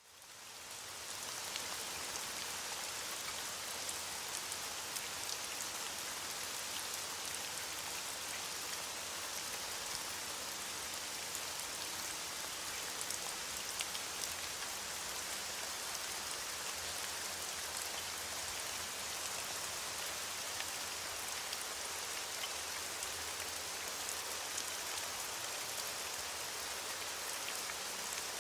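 Steady rain falling, a dense hiss of many small drop ticks, fading in over the first second or so and then holding level.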